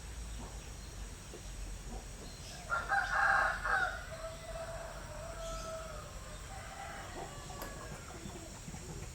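A rooster crows once, about three seconds in. The crow has a harsh opening and a long held final note that falls away. A steady low background hum runs underneath.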